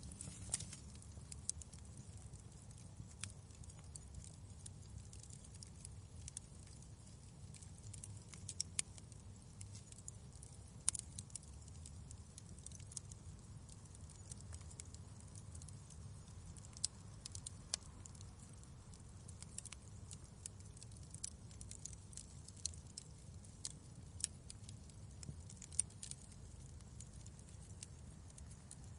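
Wood fire in a fireplace crackling, with sharp irregular pops and snaps over a low steady rumble.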